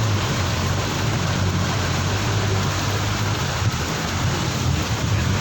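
Steady heavy rain falling, with a low steady hum underneath.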